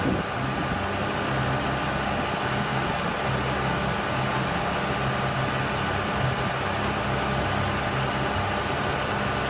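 A machine running steadily: an even, unbroken noise with a constant low hum and a faint steady tone above it.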